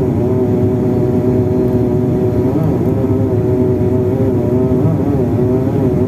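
An engine running steadily: a loud, even drone whose pitch wavers slightly.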